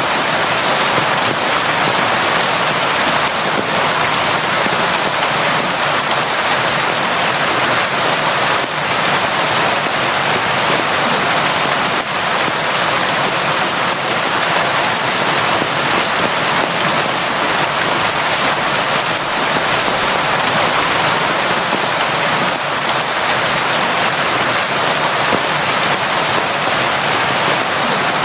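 Steady, heavy rain falling, a dense even hiss of drops without letup.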